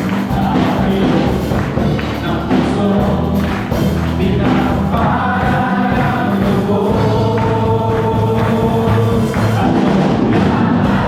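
Congregation and worship band performing a lively Tagalog praise song: many voices singing together over instruments with a steady beat.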